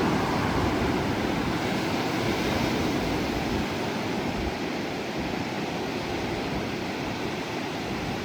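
Ocean surf: a steady wash of breaking waves, gradually getting quieter.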